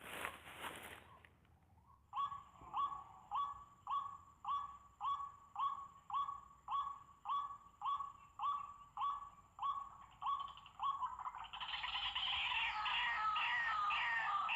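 White-breasted waterhen (ruak-ruak) calling: a repeated harsh note about one and a half times a second, which breaks into a faster, denser jumble of overlapping calls near the end. A brief rustle in the first second.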